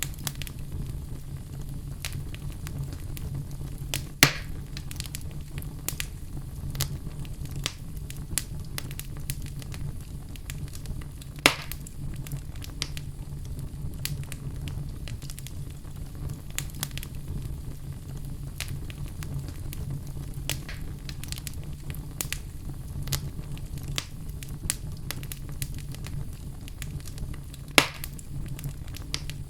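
Wood fire burning in a fireplace: a steady low rumble with frequent small crackles, and three louder sharp pops spread through.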